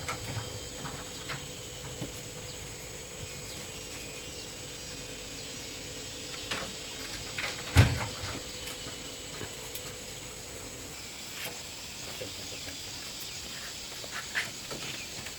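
Steady outdoor hiss with a thin high whine, broken by scattered light knocks and one loud knock about eight seconds in.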